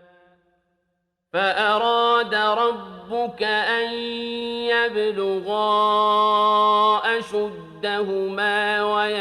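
Quran recitation: a single man's voice chanting in melodic tajwid style, with long held, ornamented notes, starting about a second in after a short silence.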